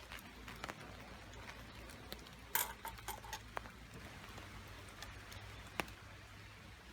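Camp cookware and utensils being handled: scattered light clicks and taps, with one louder ringing clink about two and a half seconds in and another sharp click near the end.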